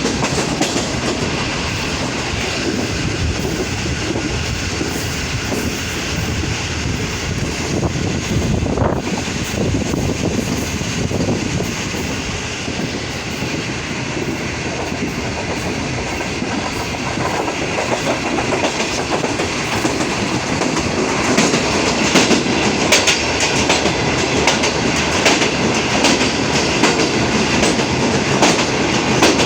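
Green Line express train running along the track: a steady rolling rumble with the wheels clicking over rail joints, the clicks growing denser and louder in the second half.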